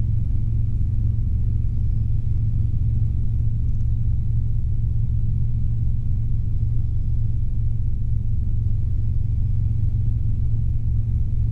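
Steady low drone of a Robinson R22 helicopter in flight, its engine and rotors heard from inside the cabin.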